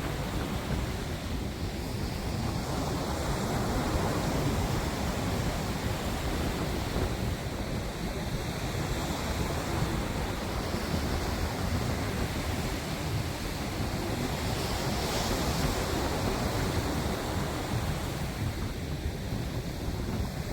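Steady rushing of wind and waves, with wind buffeting the microphone.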